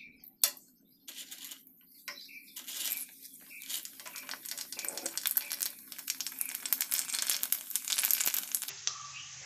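Pani puris frying in hot oil: a dense crackling sizzle that starts about a second in and builds as the puris bubble and puff up. A sharp tap comes about half a second in.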